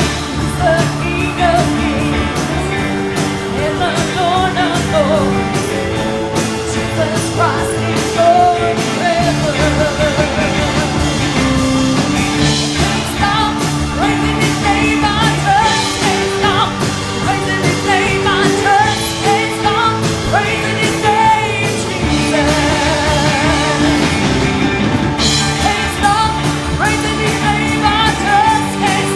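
Live worship music: singing over a full band with drums, at a steady beat.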